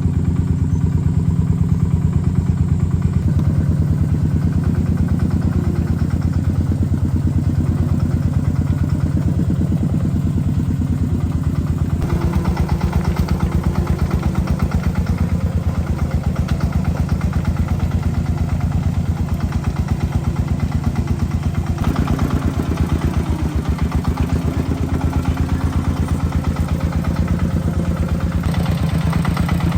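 Tractor engine running steadily with a rapid, even chugging pulse. Its tone shifts a few times, about twelve seconds in, again around twenty-two seconds, and near the end.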